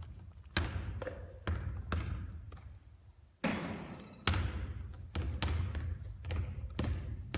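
A basketball bouncing on a hard court floor: about a dozen thuds at uneven spacing, each echoing on after it hits. The two near the middle are the loudest.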